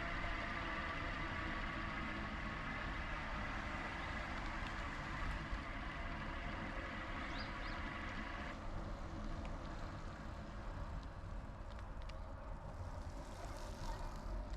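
Electric bike in motion: a steady low rumble from the ride with a band of steady high whining tones over it, which fades out about two-thirds of the way through.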